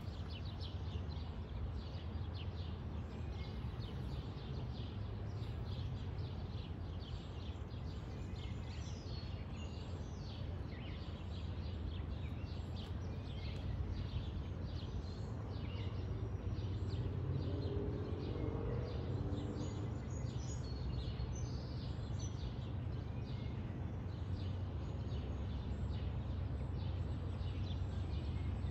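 Birds chirping and calling over and over against a steady low background rumble.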